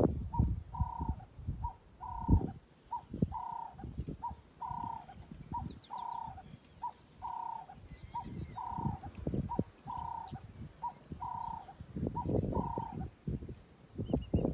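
A dove-like bird cooing a steady, repeated two-note phrase, a short note then a longer one, about ten times in a row at an even pace, with low rumbles underneath.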